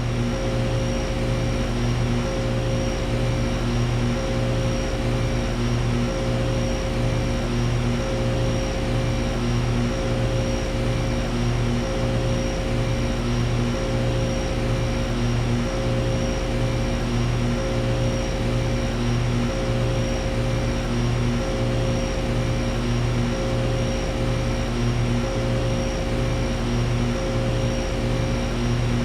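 2005 American Standard Ameristar 2-ton air conditioner running steadily: compressor and condenser fan give a constant drone with a low hum that pulses slightly.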